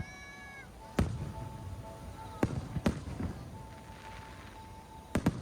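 Fireworks shells bursting: a loud bang about a second in, three more bangs over the next two seconds, and two in quick succession near the end, each followed by a short rumble.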